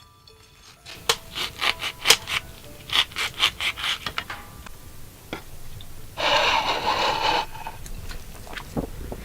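Quick scraping strokes, about three a second for a few seconds, then one longer rushing scrape about six seconds in.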